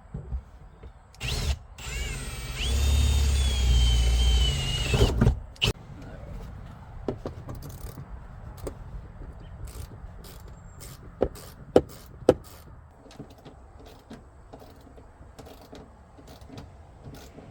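Electric drill spinning up briefly, then running for about three seconds with a high whine that dips slightly as it drills bolt holes in a truck's sheet-metal floor. A few sharp clicks and knocks follow.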